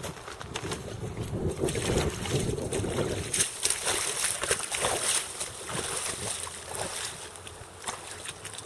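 Wind buffeting the microphone over a background of moving water, heaviest as a low rumble in the first three seconds, with scattered short clicks and knocks throughout.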